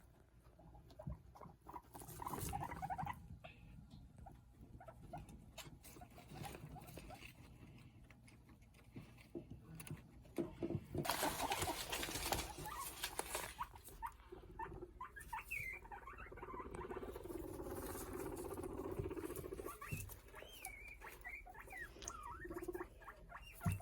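Guinea pigs vocalising and moving about, with scattered light clicks and patter throughout. There is a burst of rustling noise about eleven seconds in. Later come short low pulsing purrs and thin, wavering high squeaks.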